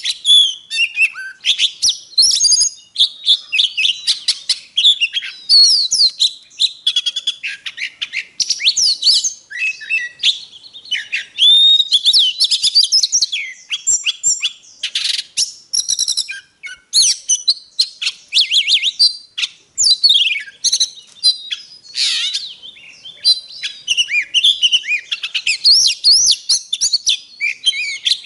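Oriental magpie-robin singing a loud, continuous, varied song of fast whistled notes, slurred glides and chirping trills, with only brief pauses.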